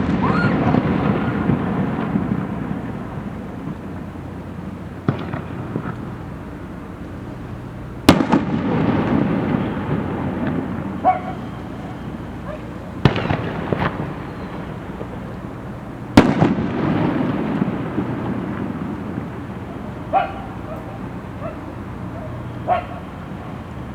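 Aerial fireworks shells bursting overhead: three loud booms about 8, 13 and 16 seconds in, each followed by a few seconds of rumbling and crackling, with fainter single bangs near 5, 20 and 23 seconds. It opens on the rumbling tail of a burst that went off just before.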